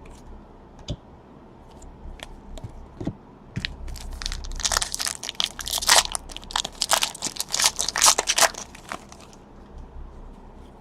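A trading card pack's foil wrapper being torn open and crinkled, a dense crackling of thin packaging, after a few light clicks of cards being handled.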